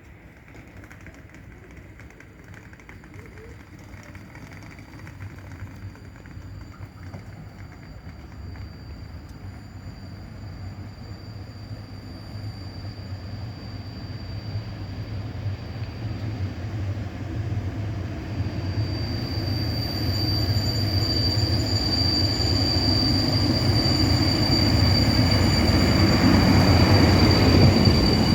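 A train approaching, its rumble growing steadily louder, with a high steady wheel squeal setting in about two-thirds of the way through and getting stronger toward the end.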